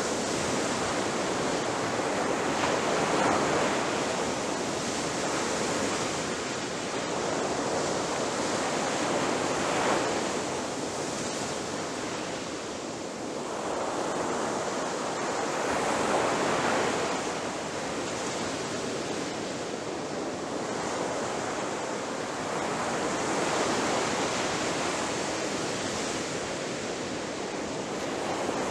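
Ocean surf: waves breaking and washing on the shore in a continuous rushing wash, swelling louder every few seconds as each wave breaks.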